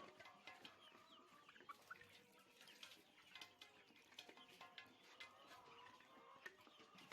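Faint chatter of a poultry flock: many short clucks and peeps overlapping, with scattered light clicks.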